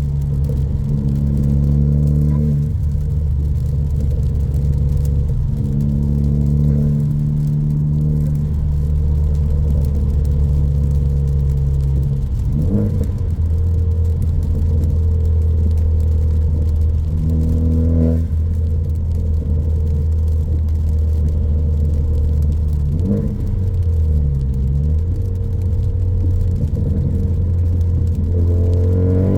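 2014 Ford Focus ST's turbocharged 2.0-litre four-cylinder, with a high-flow catted downpipe and straight 2.5-inch exhaust, running steadily while driving. Its pitch drops and climbs again a few times, with a rising rev near the end.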